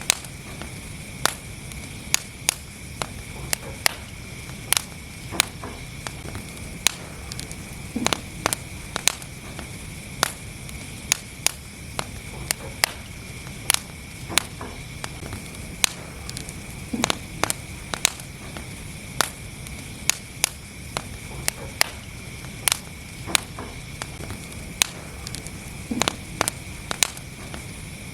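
Wood fire burning in a fireplace: a low steady rumble of flames with frequent sharp, irregular crackles and pops from the burning logs.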